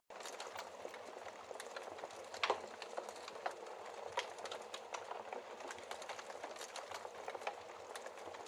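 Wood fire crackling in a fireplace: a steady hiss of burning logs with frequent small pops and snaps, one louder pop about two and a half seconds in.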